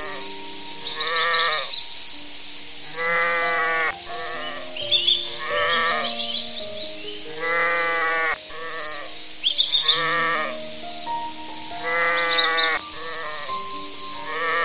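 Mouflon, a wild sheep, bleating: about six quavering bleats, each roughly a second long, over soft background music with long held notes.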